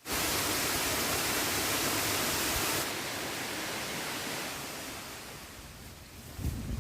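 Steady rushing of water, a dense even hiss that drops in level about three seconds in and fades further toward the end, with a low bump just before it ends.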